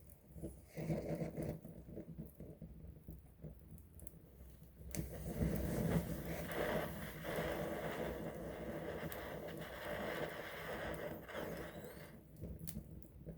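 Wood campfire burning close up: scattered crackles and pops, with a louder, steady rushing noise of the flames from about five seconds in until near the end.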